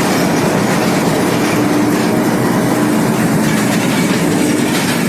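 Moving passenger train running along the rails: a loud, steady rumble of wheels and coaches on the track.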